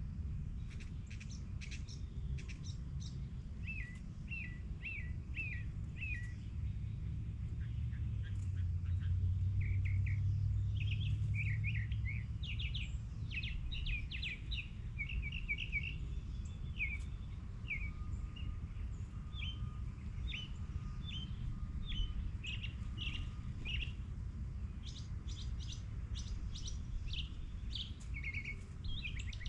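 Small birds chirping and calling, a steady stream of short, quick notes in series, over a low rumble that swells for a few seconds near the middle.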